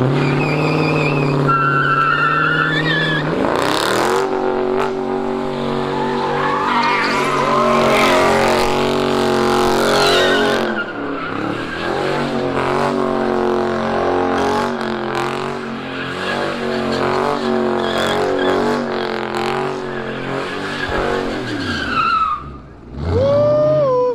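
A car engine revved up and held at high revs through a burnout slide, tires squealing and skidding. The revs drop off briefly near the end, then a quick rising rev.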